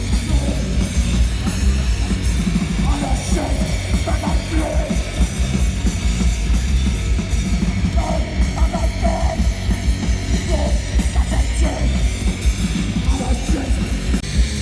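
A hardcore punk band playing live at high volume, with heavy bass and drums throughout and no breaks.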